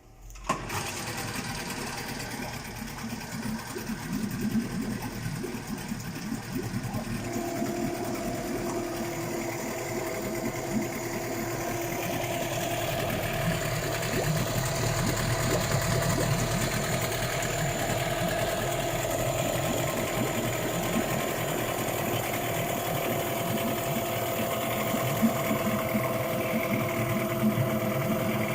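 Yamaha 8 hp outboard motor running steadily; it comes in suddenly about half a second in and grows slightly louder over the rest of the run.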